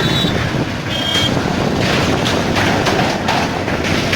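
Steady, loud rumble of vehicles moving on a bridge, with a brief high tone about a second in.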